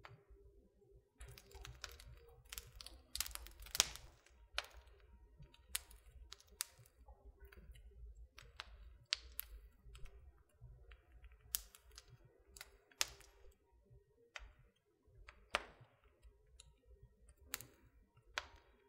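Wood fire crackling in a fireplace: irregular sharp pops and snaps over a soft low rumble of the burning, with the loudest pop about four seconds in.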